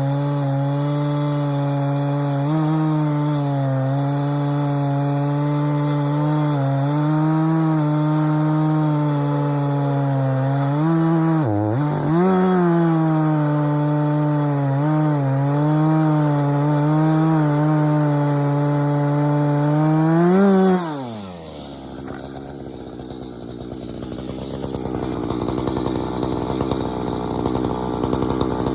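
Echo CS-590 59.8cc two-stroke chainsaw running at full throttle while cutting wood, its engine note wavering under load. About three-quarters of the way through the pitch jumps briefly, then falls away sharply as the throttle is let off, and the saw runs much quieter.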